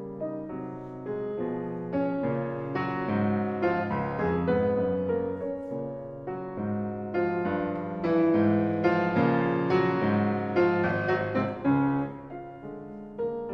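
Solo piano music: a steady flow of notes and chords, growing louder through the middle and softening near the end.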